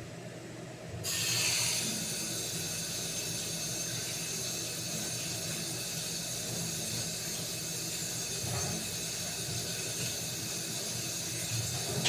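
A steady hiss starts suddenly about a second in and holds until near the end, over a low hum.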